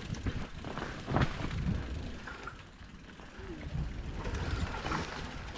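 Mountain bike rolling down a rough dirt trail: tyres rumbling and the bike rattling over bumps, with a sharp knock about a second in.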